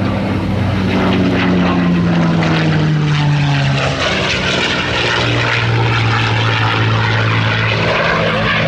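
Airplane engine drone as an aircraft flies past. Its pitch falls for the first few seconds, then holds steady.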